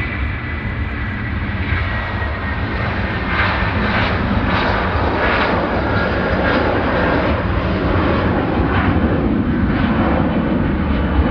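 Jet airliner's engines running loud as it passes close by. The rumble builds over the first few seconds, then holds steady.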